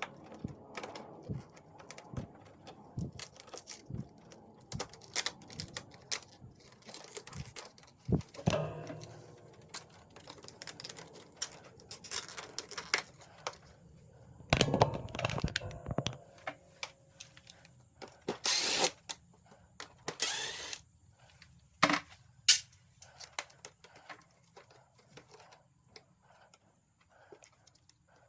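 Irregular clicks, taps and knocks of hand tools and plastic and metal parts being handled while an air conditioner is taken apart, with a busier clatter about halfway and two short rushing noises soon after.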